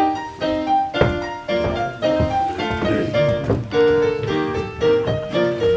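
Piano playing an opera piece: a melody of held notes over chords.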